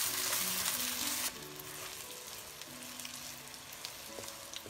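Eggplant strips sizzling as they fry in oil in a stainless steel honeycomb wok, turned with wooden chopsticks. The sizzle drops to a quieter level about a second in. Soft background music underneath.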